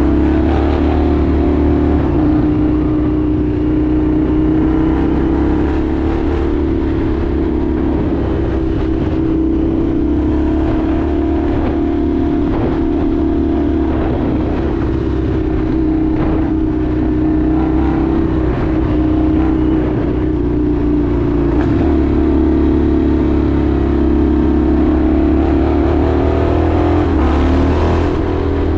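Indian FTR 1200's V-twin engine running at steady riding revs, its pitch easing up and down a little, then dipping and picking back up near the end.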